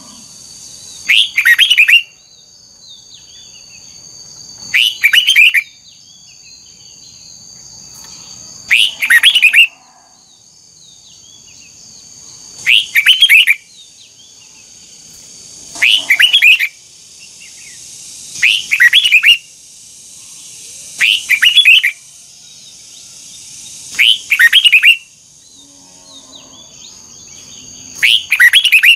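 Red-whiskered bulbul singing short, loud phrases, one about every three to four seconds, nine in all, with a steady high-pitched hum underneath.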